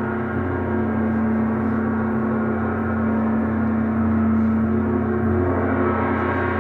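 Gong kept sounding in a steady, sustained wash of many overlapping shimmering tones, with a strong low hum underneath and no separate strikes, swelling slightly about two-thirds of the way through.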